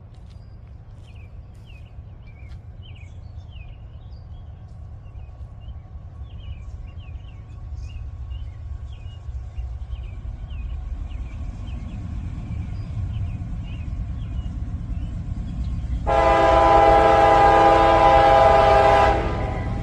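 Diesel freight locomotive approaching, its low engine and rail rumble growing steadily louder, then sounding one long horn blast of about three seconds near the end. Birds chirp faintly in the first half.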